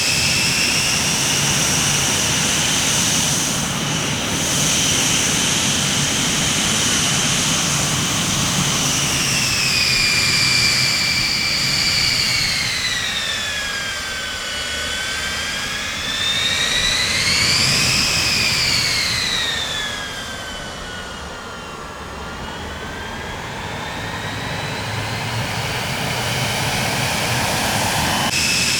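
Jet airliner engines running with a steady rush and a high whine. The whine drops in pitch about halfway through, rises again briefly, falls once more and then settles back to its first pitch near the end.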